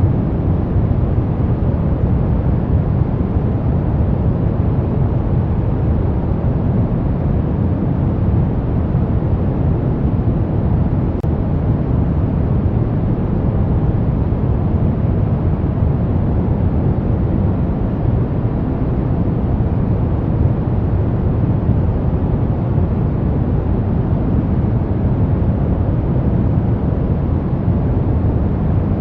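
Brown noise: a steady, deep, rumbling hiss with most of its energy in the low frequencies, unchanging throughout.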